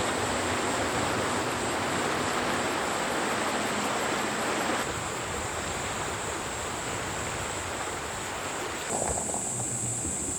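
Forest ambience: a steady rushing noise with a continuous high insect trilling above it. The sound changes abruptly about five seconds in and again about nine seconds in, where the trilling becomes louder.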